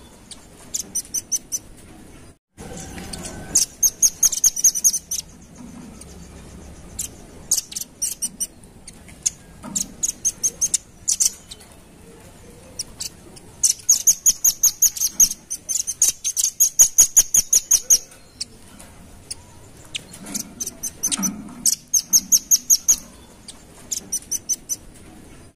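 Velvet-fronted nuthatch calling: rapid runs of sharp, high chips, several a second, in bursts of one to a few seconds with short pauses between.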